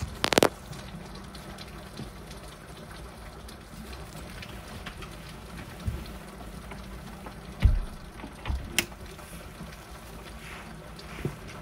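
Steady heavy rain, with a few sharp knocks and brief low thumps; the loudest knocks come right at the start and about two-thirds of the way through.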